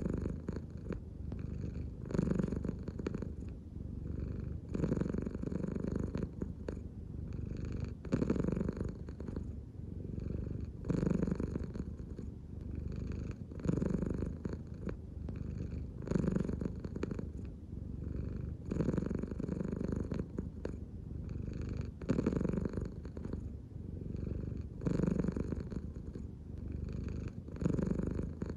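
American Shorthair cat purring steadily and close up, the purr swelling and easing about every three seconds with each slow belly breath.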